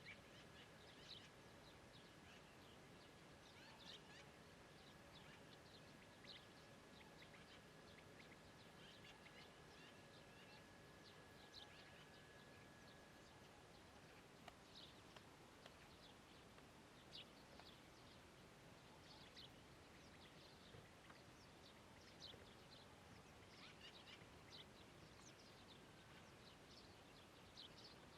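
Meadow ambience with small birds chirping faintly, short high calls scattered irregularly over a soft steady background hiss. A faint steady high tone runs under them through the first half and stops about halfway.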